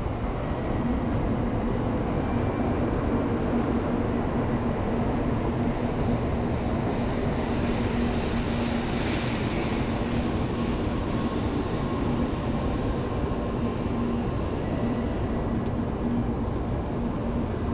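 Shinkansen bullet train running into the platform and rolling past: a steady rumble of wheels and running gear under a low hum. A hiss swells and fades about halfway through.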